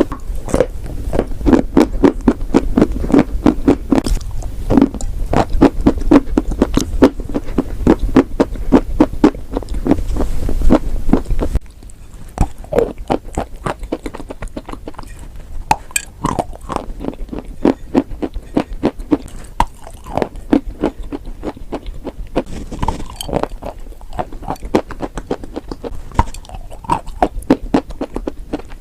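Close-up crunching and chewing of chalk and clay: a dense run of sharp crunches over a low hum. About eleven seconds in, the hum drops out and the crunching turns quieter and sparser.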